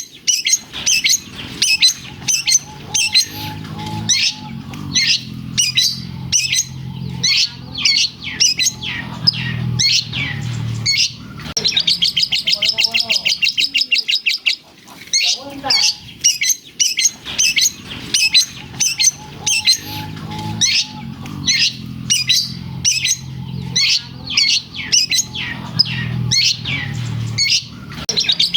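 Long-tailed shrike (cendet) singing loudly and continuously: a fast stream of high chirps and trills with mimicked lovebird calls. A rapid buzzing rattle comes in about halfway through and again near the end, and the same run of phrases repeats.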